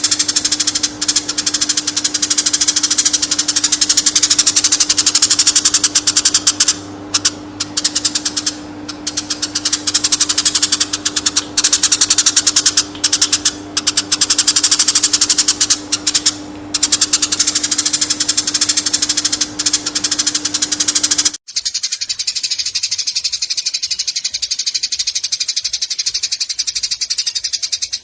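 Eurasian tree sparrow chirping in a fast, unbroken chatter, its notes running together almost like a trill. A steady low hum underneath stops abruptly about 21 seconds in, while the chirping continues.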